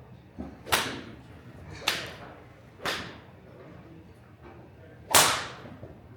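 Golf clubs striking balls: four sharp cracks at uneven intervals, each dying away quickly, the loudest about five seconds in.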